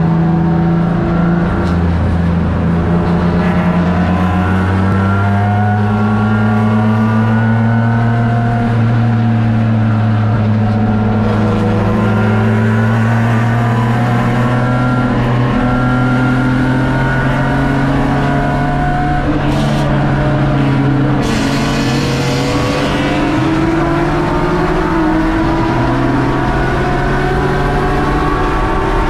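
BMW E36 race car's engine heard from inside the cabin, pulling hard under acceleration, its pitch climbing slowly and stepping at several gear changes. A couple of brief rushing hisses come near the end.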